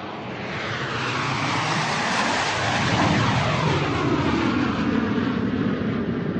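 An airplane flying overhead. Its engine noise swells over the first few seconds into a loud, steady rush, with a phasing, sweeping whoosh running through it.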